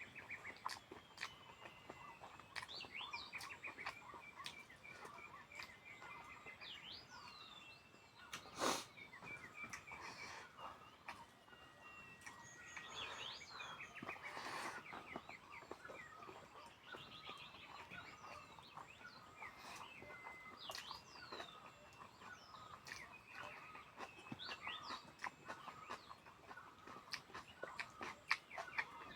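Small birds chirping and calling, many short chirps and quick falling notes overlapping, with scattered clicks and one sharp knock about nine seconds in.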